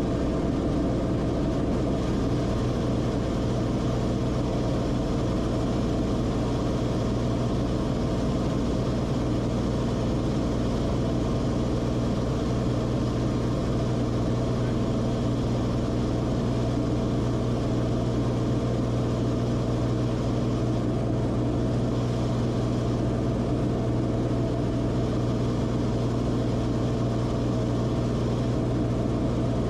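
Cessna Corvalis TTX's turbocharged six-cylinder piston engine and propeller droning steadily at constant power.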